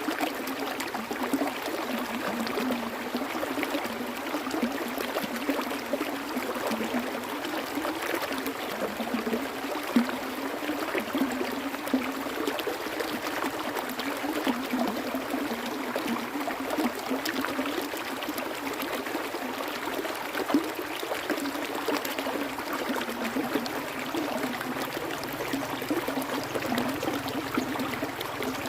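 Water flowing and trickling in a small stream, a steady bubbling rush with small splashes and occasional louder plops.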